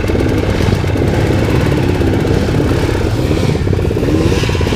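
Enduro motorcycle engine running steadily with rapid, even firing pulses.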